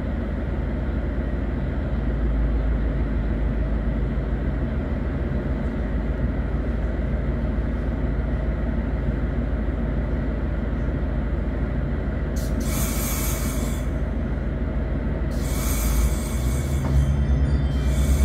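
Diesel passenger train heard from inside the carriage, its engine running with a steady low rumble, with two bursts of hiss about twelve and fifteen seconds in. Near the end the engine note strengthens and the sound grows louder.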